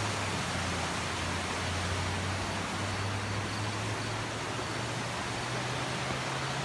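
Vehicle driving: a steady rush of road and wind noise under a low engine hum that slowly rises in pitch.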